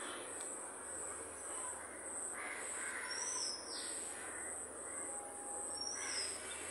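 Birds calling over a steady outdoor background hiss, with a few short calls, the clearest between about two and a half and three and a half seconds in and another near the end.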